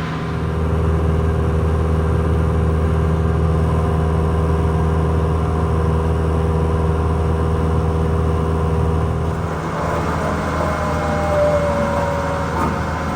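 Vehicle engine running steadily with a low hum. About nine and a half seconds in, the sound changes and becomes rougher, with some higher tones gliding in pitch.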